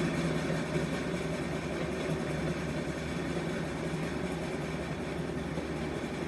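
Passenger train running by, a steady low drone with wheel and rail noise and no distinct chuffs.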